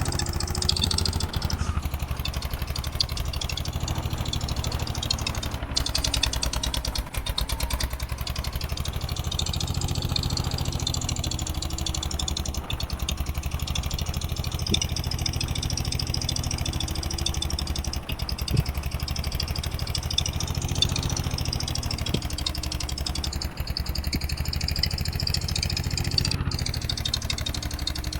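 Eicher 241 tractor's single-cylinder diesel engine running steadily, its speed drifting up and down a little now and then.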